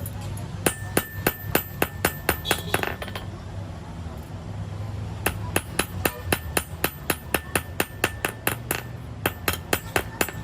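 Hand hammer striking metal on a truck clutch plate in two quick runs of blows, about five a second, with a short metallic ring during the first run and a pause of about two seconds between runs. A steady low hum runs underneath.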